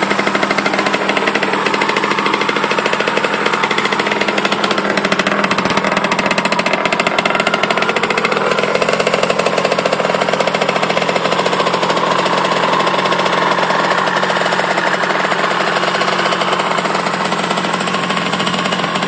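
Kawasaki KX60's small single-cylinder two-stroke engine idling steadily after being kick-started, with an even, rapid firing beat.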